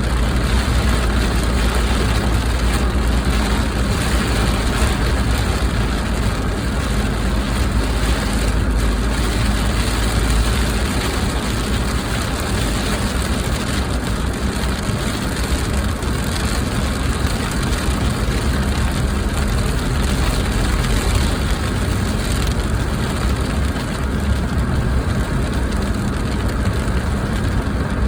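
Heavy rain pounding on a car with its engine running, a steady dense rush over a low rumble that is stronger in the first third.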